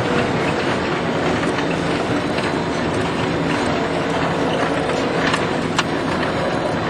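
Claas 900 forage harvester running steadily under load while harvesting silage, with a couple of sharp clicks near the end.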